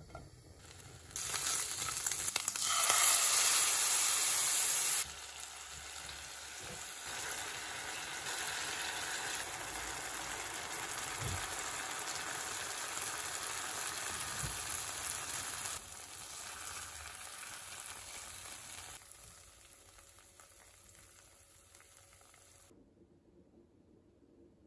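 Pork belly slices sizzling as they fry in a pot, heard as a steady hiss in a few cut-together stretches of different loudness. It is loudest early on and stops abruptly near the end.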